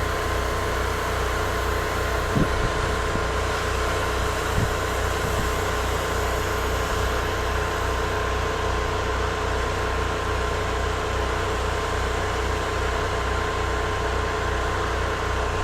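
A soft-wash rig's generator and spray pump running steadily while roof-cleaning solution is sprayed: a constant engine hum over an even hiss, with a few faint knocks in the first few seconds.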